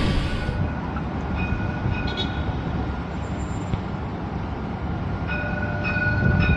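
Light-rail train running: a steady low rumble, with a thin high whine that comes and goes.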